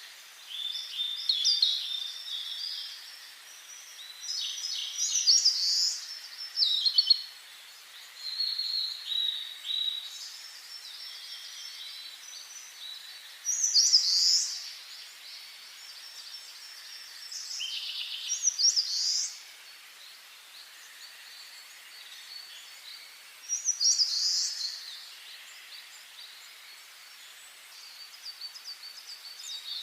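Songbirds singing in the forest: short phrases of quick, high notes that come every few seconds, with quieter stretches between.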